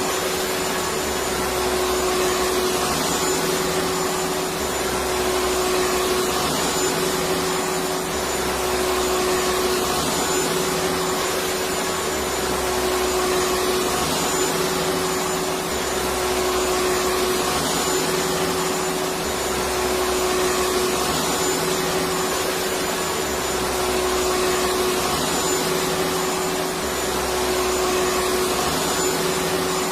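Electric vacuum cleaner running steadily: an even whooshing noise over a constant hum, with a low pulse that comes and goes about every three and a half seconds.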